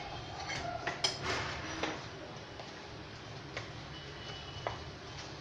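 A few sparse, light clicks and ticks during cooking, over a low steady hum. The clicks come busier in the first two seconds, then every second or so, with a faint thin whine about three and a half seconds in.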